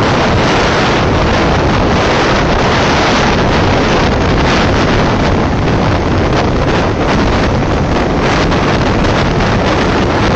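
Wind rushing over the microphone of a moving motorcycle sidecar outfit, a loud steady noise that covers the sound of the ride.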